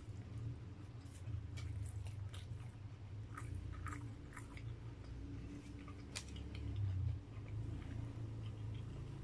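Close-up chewing of grilled barbecue meat, with soft wet mouth clicks scattered throughout and one sharper click about six seconds in, over a steady low hum.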